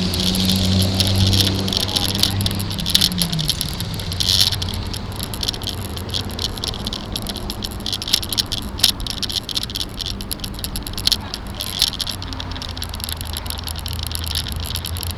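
Rattling and clicking from a bike-mounted camera shaken by road vibration as the bicycle rolls along, over the hum of a vehicle engine that drops in pitch about three seconds in.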